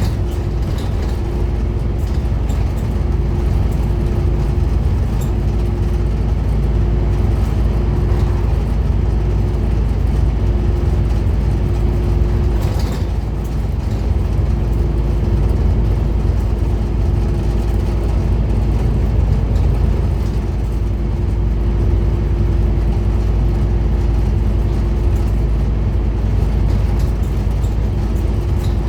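Diesel engine of a Scania N230UD Omnicity double-decker bus running steadily under way, with a faint whining tone that drops out and returns every second or so.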